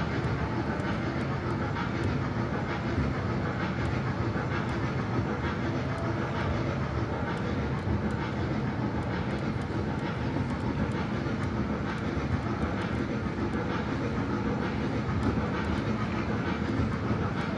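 Small ride-on mall train running steadily, heard from on board: a continuous rumble of its wheels and motor with faint scattered ticks.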